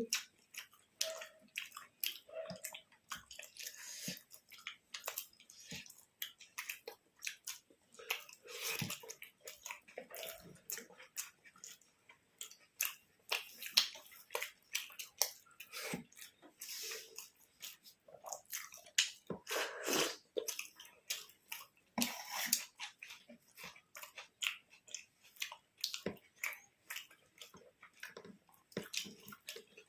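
Close-up chewing and wet mouth sounds of people eating, a steady run of quick clicks and smacks.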